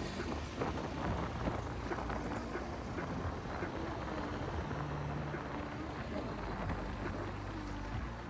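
Honda SP 160 motorcycle's single-cylinder engine running while riding, its note holding fairly steady, with wind rushing over the helmet microphone.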